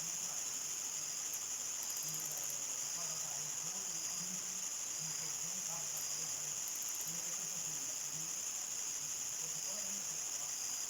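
Crickets singing in a steady, unbroken high-pitched chorus at nightfall in the countryside, with a few brief faster trills high up and faint low sounds underneath.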